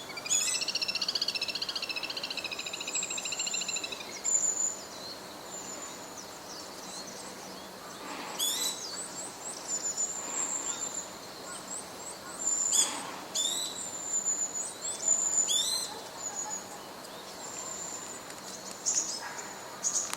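Wild birds calling: a fast, wavering trill for the first four seconds, then scattered high, thin calls with a few sharp, sweeping calls.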